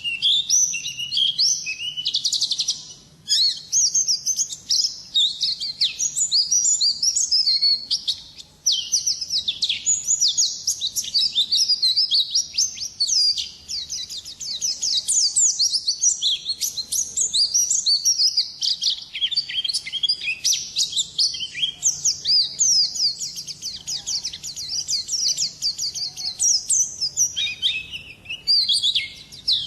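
White-eye (pleci) singing a long, fast, continuous warbling song of high twittering notes, the 'ngalas' style prized by Indonesian songbird keepers, with a couple of brief pauses early on.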